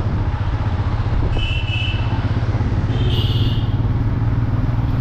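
Motorcycle engine running steadily at road speed with wind and road noise. Horns beep twice in quick succession about a second and a half in, then give a longer blast about three seconds in.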